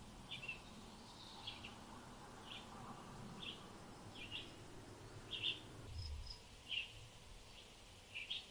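A bird calling in short, repeated chirps, roughly one a second, over a faint background hiss.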